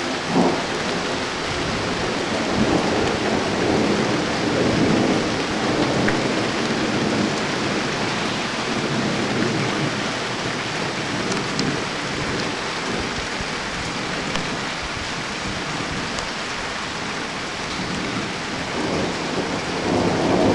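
Steady rain falling with thunder rumbling: a long low rumble swells through the first half, and another builds near the end.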